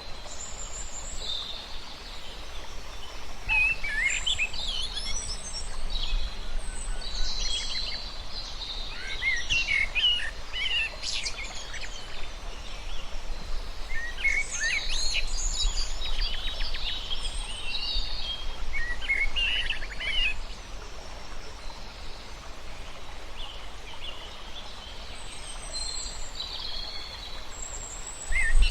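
Wild birds chirping and calling in quick trills and groups of short notes, over a steady low rumble of outdoor background noise.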